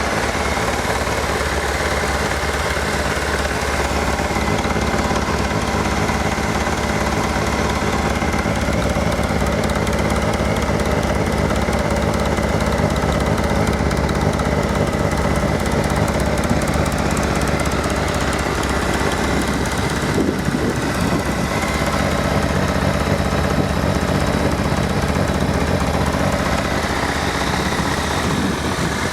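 Triumph Sprint RS 955i motorcycle's three-cylinder engine idling steadily.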